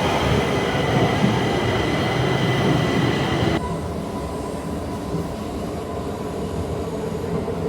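Train running on rails, a loud rumble with steady high whining tones, which drops abruptly to a quieter, even run with a single steady tone about halfway through.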